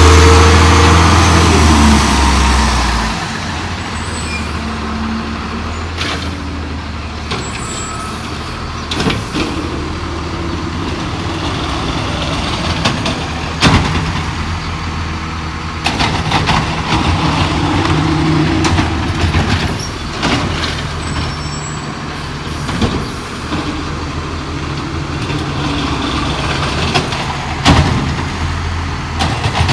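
Crane Carrier LET1 diesel garbage truck running, loud and heavy for the first three seconds, then settling to a steadier run. Sharp clanks and bangs come now and then, most notably near the middle and near the end.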